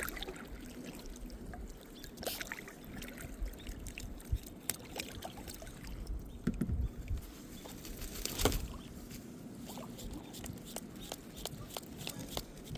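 Water trickling and dripping around a kayak, with scattered small splashes and light knocks on the hull or paddle. One louder knock or splash comes about eight and a half seconds in.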